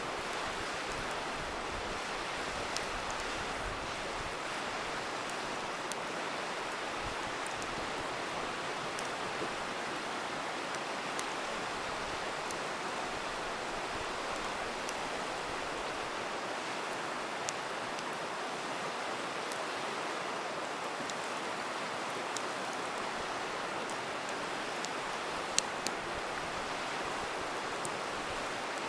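A river rushing steadily, with the scattered sharp pops and crackles of a wood campfire over it; the loudest pop comes near the end.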